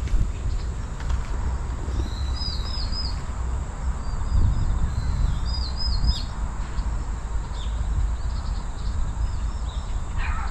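Small birds chirping in quick runs of about three high notes, twice close together and then more faintly, over a steady low rumble.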